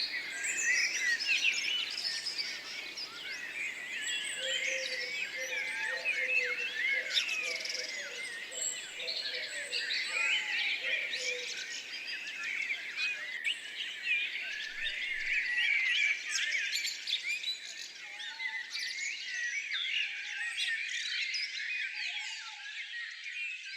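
A chorus of many small wild birds chirping and twittering at once, a dense, unbroken tangle of high, quick notes.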